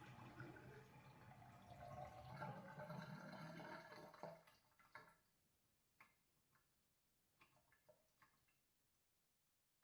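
Toilet flush draining away, the rush of water fading out about four seconds in, followed by a few scattered drips.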